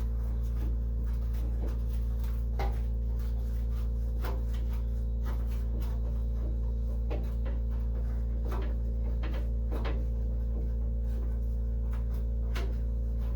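A steady low electrical hum, switched on just before, with irregular clicks, taps and rubbing as small car trim parts are handled and worked loose.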